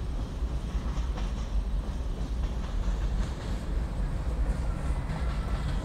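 Manifest freight train's tank cars and boxcars rolling past: a steady rumble with occasional clicks from the wheels.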